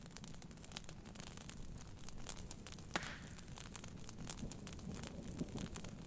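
Wood fire crackling with quick irregular pops, one louder pop about three seconds in, over the steady low patter of rain on a tent.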